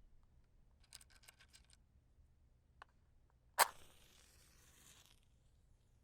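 A wooden match struck once, a sharp scratch about three and a half seconds in, followed by about a second and a half of hissing as the head flares. Before it, a quick run of light clicks and rattles.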